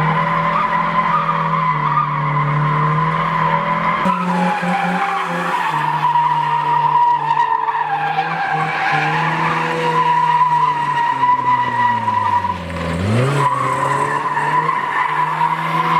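Nissan 1400 bakkie's engine held at high revs with its tyres squealing in a long, sustained skid. About thirteen seconds in the revs drop briefly and climb again.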